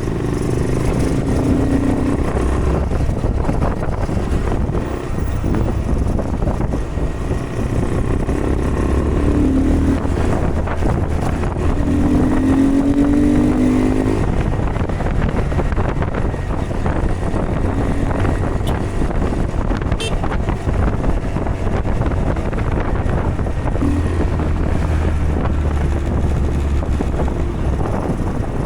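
Honda Grom mini bike's single-cylinder engine running under way, under a steady rushing noise; the engine note rises as it accelerates about twelve seconds in, and again briefly near the end.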